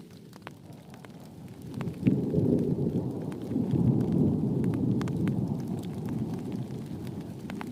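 Thunder rumbling over steady rain: a low rumble swells suddenly about two seconds in, holds for a few seconds and slowly dies away, while individual raindrops tick throughout.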